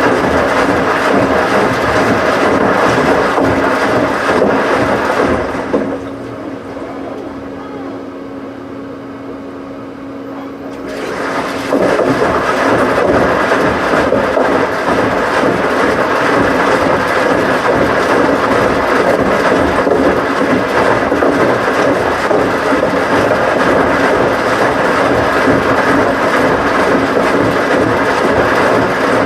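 Washing machine running with a loud, steady mechanical rumble. About six seconds in it eases off for roughly five seconds, leaving a steady motor hum, then picks back up to full level.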